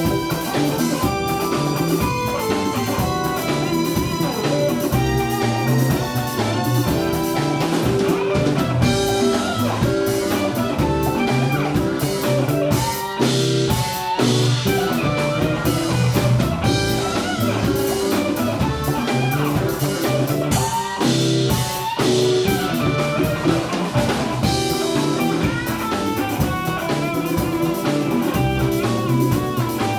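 Band music: guitars playing over bass and a drum kit in a bluesy groove.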